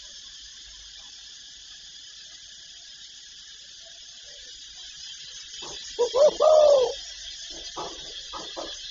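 Spotted dove cooing over a steady high hiss. After a pause of about five seconds comes one phrase of short notes and a long arched coo, then several quick short notes near the end.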